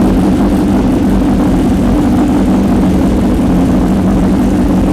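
BMW S1000R's inline-four motorcycle engine running loud at steady revs, its pitch holding level.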